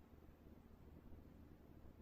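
Near silence: faint steady low hum and hiss from the recording.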